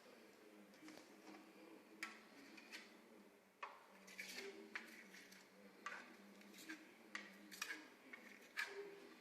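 Faint, irregular light taps and scrapes, about one a second, of a tool working decorative paint onto a wall.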